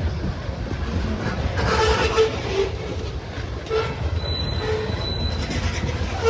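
Freight train cars rolling past slowly, a steady low rumble of wheels on rail broken by short squeaks and squeals from wheels and car bodies.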